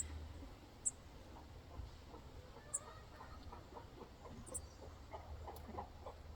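Chickens clucking softly: a run of short, low clucks starting about halfway in, with a few brief high chirps scattered through.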